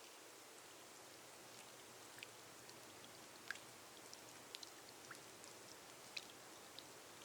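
Faint steady rain hiss with scattered single drops ticking sharply, rain falling on a glass roof.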